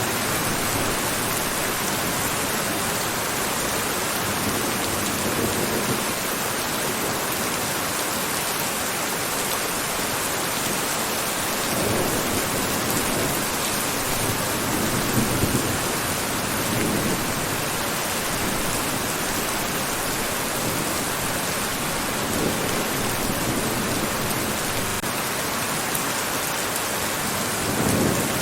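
Steady heavy rain falling in a dense, even hiss. A few short, low swells rise out of it, at about twelve, fifteen and seventeen seconds, again around twenty-two seconds and near the end.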